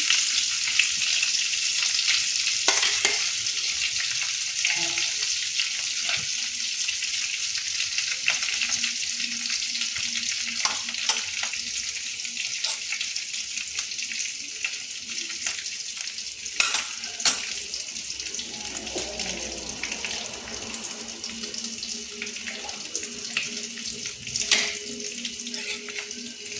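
Garlic and nigella seeds sizzling steadily in hot oil in a kadai, a tempering (phoron), the sizzle slowly growing quieter, with a few sharp clicks now and then.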